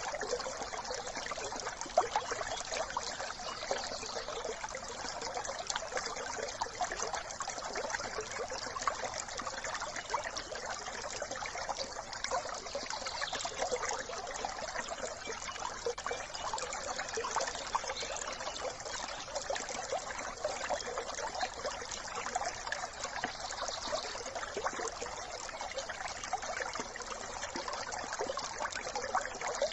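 A small brook trickling and babbling over stones: a steady rush of running water with a fine, busy splashing texture.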